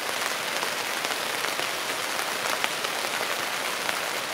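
Rain falling steadily on a one-pole tent's fabric, heard from inside the tent: an even hiss with a few faint drop ticks.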